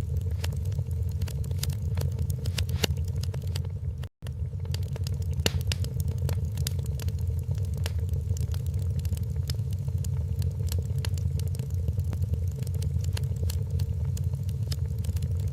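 Wood fire crackling in a fireplace: frequent small snaps and pops over a steady low rumble, with a momentary gap in the sound about four seconds in.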